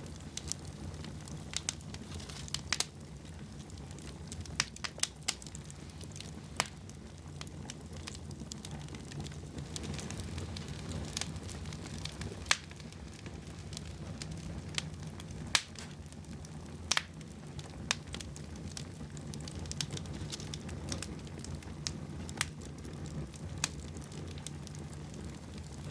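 Wood fire burning in a fireplace, crackling with irregular sharp pops, a few louder than the rest, over a steady low rumble.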